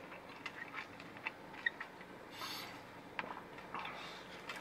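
Faint close-up chewing of a soft pizza wrap with the mouth closed: scattered soft mouth clicks, and a brief rustle about two and a half seconds in.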